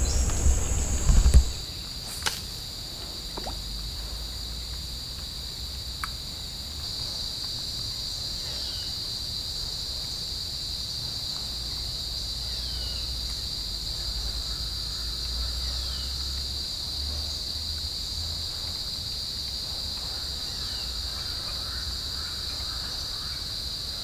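Steady high-pitched drone of insects in the surrounding trees, with a few short falling chirps over it. A louder passage of music cuts off about a second and a half in.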